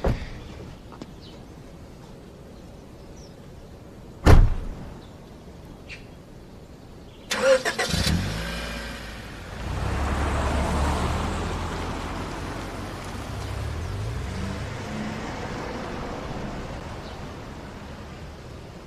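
A car door shuts with a single heavy thud. A few seconds later there are clicks, then a car engine starts and runs with a low rumble that swells and then slowly eases off.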